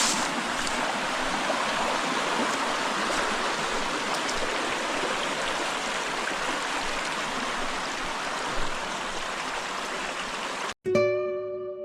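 Small mountain stream running steadily over rocks. Near the end it cuts off and plucked-string music, like a ukulele, begins.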